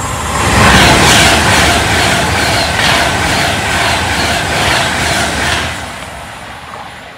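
Avanti West Coast Class 390 Pendolino electric train passing at speed: a loud rush of wheel and air noise with a fast, even beat of wheels over the rails. It swells about a second in and fades away after about six seconds as the train recedes.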